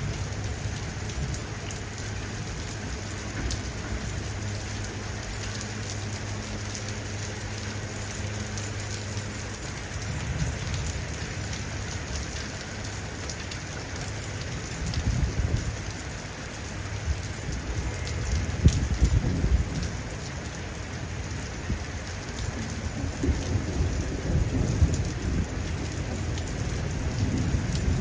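Heavy rain falling steadily, with low thunder rumbling several times in the second half.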